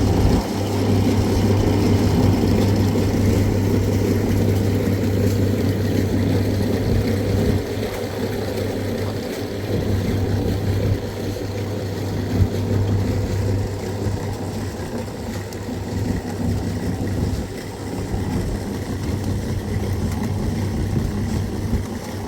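A motor running steadily with a strong low hum, dropping somewhat in level about a third of the way in.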